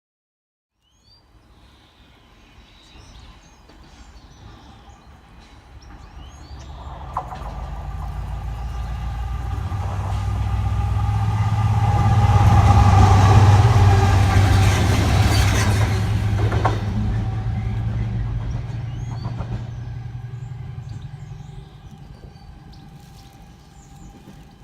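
A Class 70 and a Class 66 diesel locomotive running light engine, approaching, passing and fading away. Their engines drone low and steadily, loudest about halfway through, with a few sharp clicks from the wheels on the rails. Birds chirp faintly before and after the pass.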